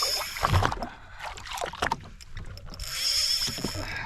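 A fishing reel whining in two spells about two seconds apart while a heavy, solidly hooked fish is fought, over water splashing around a jet ski.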